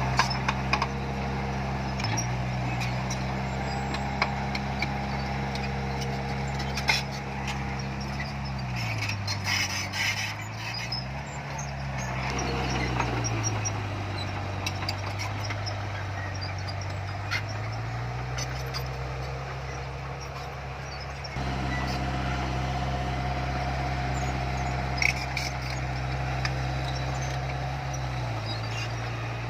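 Diesel engine of heavy earthmoving equipment running steadily. Its engine speed drops about a third of the way in, rises briefly, stays lower for several seconds and then climbs back. Occasional short metallic knocks.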